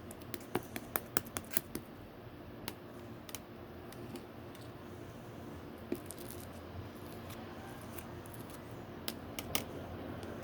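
White and yellow slime being mixed by hand, giving sharp clicking pops as air pockets in it burst: a quick run of about eight in the first two seconds, then scattered single ones, and another little cluster near the end.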